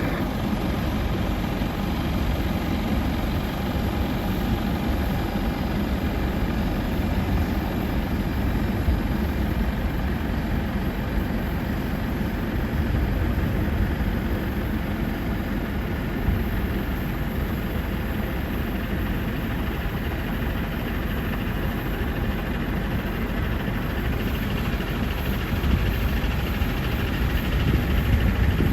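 F-35 Lightning II jet engine running with a steady low rumble, swelling a little near the end.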